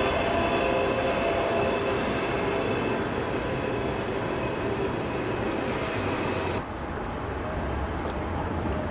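Electric tram running on street track, a steady rumble with a faint whine on top that slowly fades. About two-thirds of the way in the sound changes abruptly to a duller, lower rumble.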